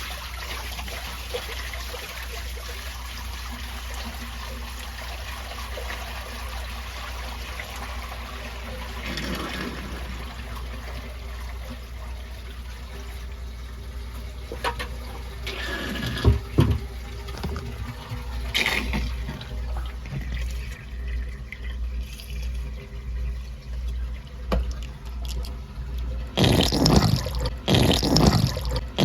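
Water running from a tap into a sink: a steady flow at first, then splashing more unevenly, with the loudest surges near the end.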